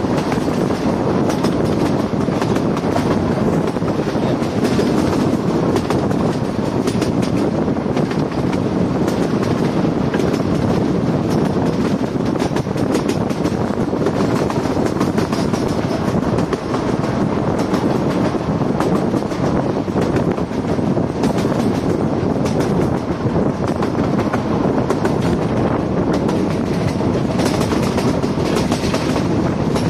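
Narrow-gauge Kangra Valley Railway passenger coaches running, heard close to the wheels from an open coach doorway: a steady rumble with a continual clickety-clack of wheels crossing rail joints.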